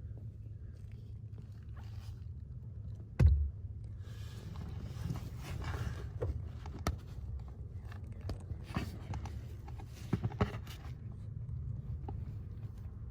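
Hand-work noises: one sharp knock about three seconds in, a stretch of rubbing or scraping after it, then scattered clicks and taps over a low steady hum.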